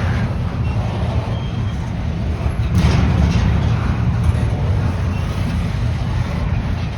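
Steady low rumble of a passing train, with a sharp knock about three seconds in.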